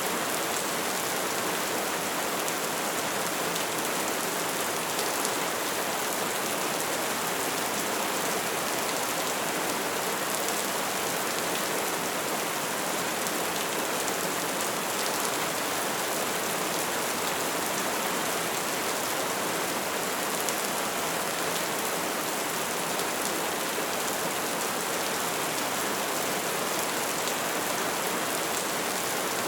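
Wood fire crackling steadily: a dense, even patter of small crackles and pops over the hiss of the flames.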